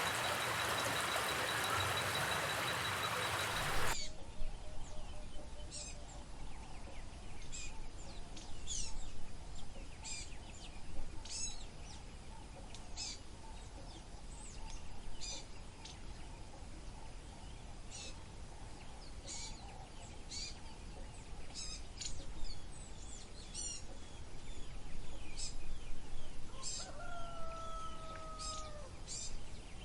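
Birds calling: many short, sharp falling chirps every second or so, and one longer, lower call held for about two seconds near the end. For the first four seconds there is instead a steady rushing noise with a faint high whine, which cuts off abruptly.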